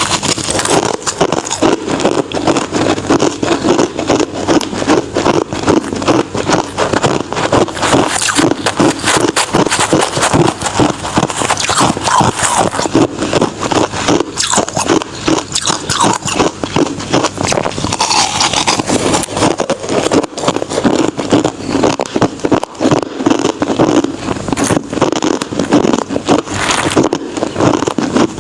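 Close-up chewing and biting of crushed and shaved ice: a continuous run of rapid, crisp crunches.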